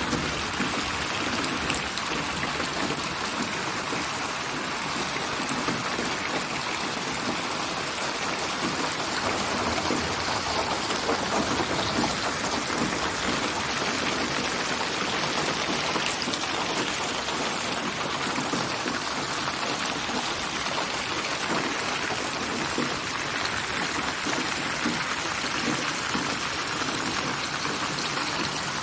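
Steady rain falling, an even, unbroken wash of raindrops.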